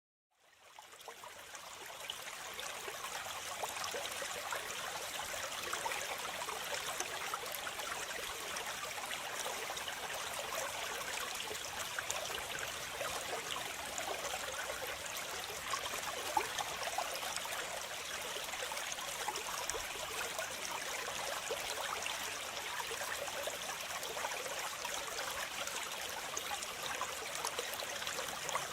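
Waterfall running steadily: an even hiss of falling and splashing water, mostly high with little low rumble, fading in over the first couple of seconds.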